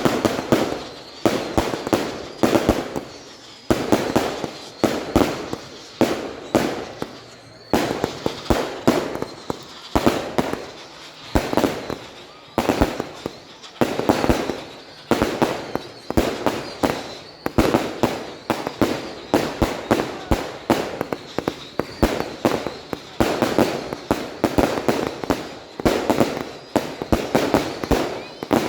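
Many fireworks going off one after another: a dense, continuous barrage of sharp bangs, several a second in clustered volleys, each trailing off before the next.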